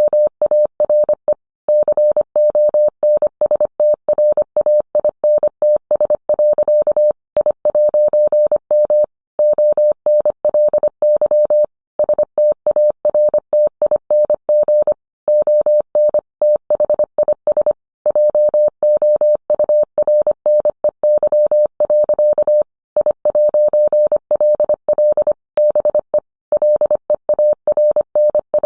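Morse code: a single mid-pitched tone keyed on and off in quick dots and dashes, with short pauses between words.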